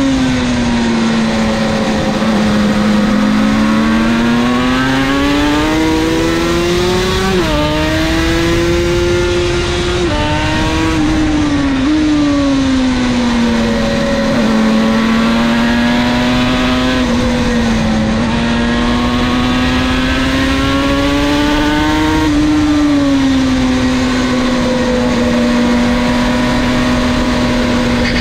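Two-stroke motorcycle engine on Martin Johnson exhaust pipes at racing speed, heard from onboard. The engine note climbs under acceleration and drops suddenly at several gear changes, with a steady rush of wind under it.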